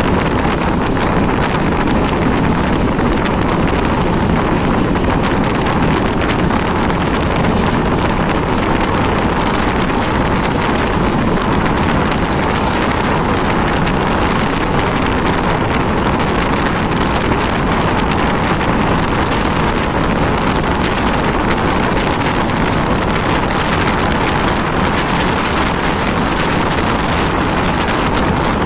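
Steady rush of wind on the microphone held at the window of a moving train, mixed with the train's running noise on the rails.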